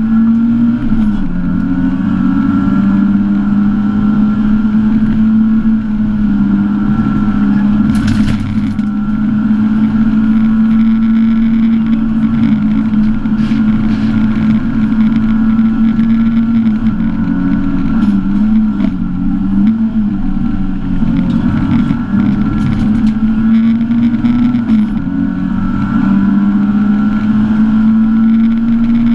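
Lada Samara rally car's engine heard from inside the cabin, held at high revs under hard driving, its pitch dipping and climbing back a few times, in the middle and again near the end. A short noisy burst comes about eight seconds in.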